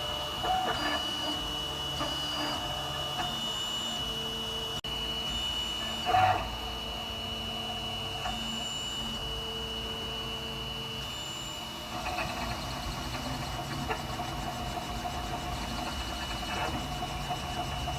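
FDM 3D printer printing in PLA: the stepper motors whir in short tones that change pitch as the print head moves, over a steady high whine.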